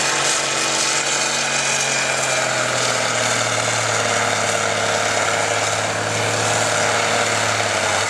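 Farm tractor engine running hard under load, pulling a weight-transfer sled in a tractor pull, its pitch sagging a little a couple of seconds in and then holding steady.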